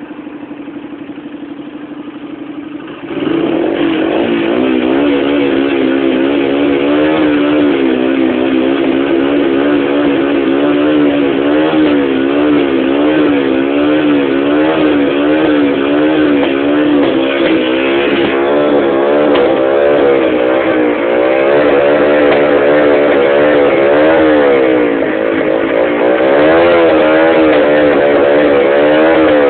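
Rieju RS2's 50cc two-stroke engine breathing through an aftermarket Turbokit exhaust, idling and then, about three seconds in, revved over and over in quick throttle blips, its pitch swinging up and down. A few bigger revs come later.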